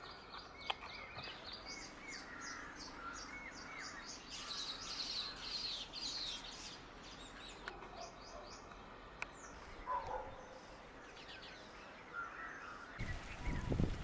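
Small birds chirping outdoors: a quick series of short, high chirps over the first half, then scattered lower calls over faint background noise. A low rumbling noise comes in about a second before the end.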